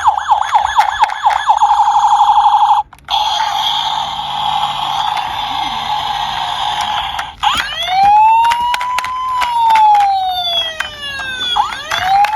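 Police siren: a fast warbling yelp, a short break, a steadier tone, then from about halfway through slow rising and falling wails. Many sharp little clicks run through it, like small toy cars clattering.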